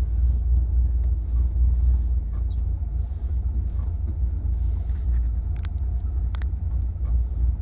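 Chevrolet Impala's 300-horsepower 327 V8 rumbling steadily at low speed, heard from in the car. Two brief high squeaks come about two-thirds of the way through.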